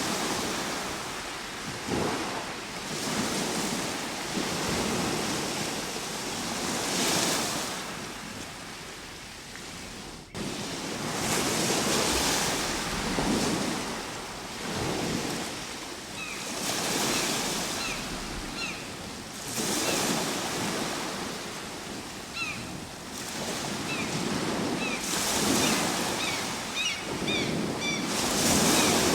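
Ocean waves breaking and washing in, swelling and fading every few seconds. A run of short high chirps sounds over the surf in the second half.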